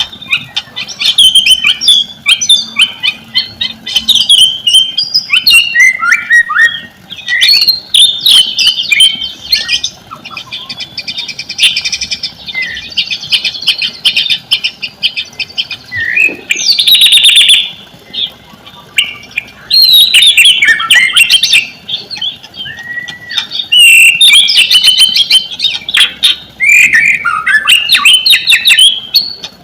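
White-rumped shama singing a loud, continuous song of varied whistled phrases, quick trills and harsh chattering notes, with short pauses between bouts.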